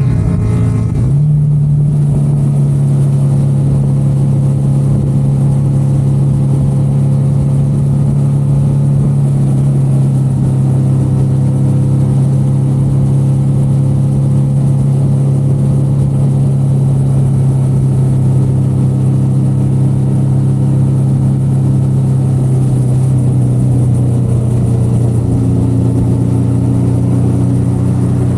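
Motorcycle engine running at steady cruising revs on the move, with a brief dip and recovery in pitch about a second in.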